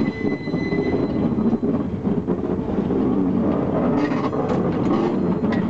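Caboose rolling along the track, heard from its open rear platform: a steady rumble of wheels on rails, with a faint high wheel squeal near the start and a run of sharp clicks about four seconds in.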